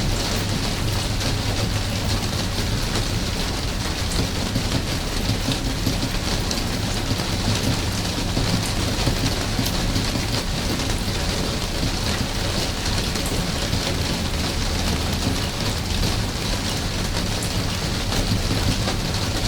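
Steady rain falling, an even hiss with many small scattered drop ticks and a steady low rumble underneath.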